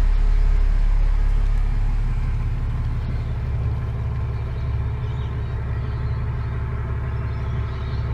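A sailboat's inboard engine running steadily under way, with a low, even hum that eases slightly about two seconds in.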